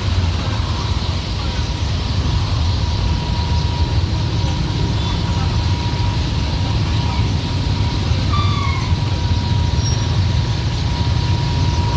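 Busy rush-hour street traffic of motorbikes and cars: a steady, loud engine rumble with a thin constant high tone, and a brief squeal about eight seconds in.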